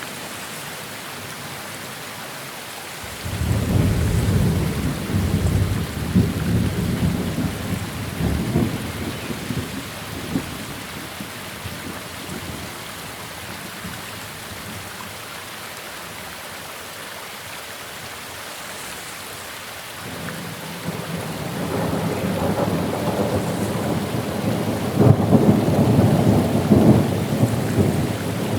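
Steady rain with two rolls of thunder: one breaks suddenly about three seconds in and rumbles on for several seconds, and another builds from about two-thirds of the way through and is loudest near the end.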